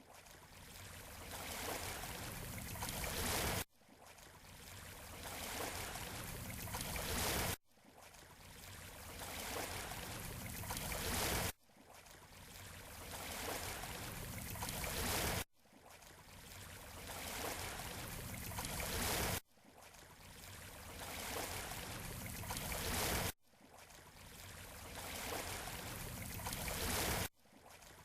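Surf washing on a beach shore, a hiss of water across the whole range of pitch. It is a short recording looped about every four seconds: each repeat swells, then cuts off abruptly with a brief gap before the next.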